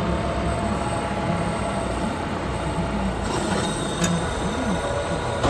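JCB telehandler's diesel engine working under load as it pushes chopped maize silage up the clamp, its pitch swinging up and down briefly, with a sharp clank about four seconds in.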